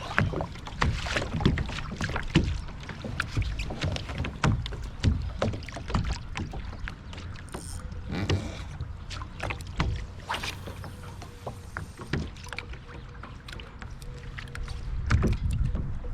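Lake water slapping against a small boat's hull, with low wind rumble on the microphone and scattered knocks and splashes.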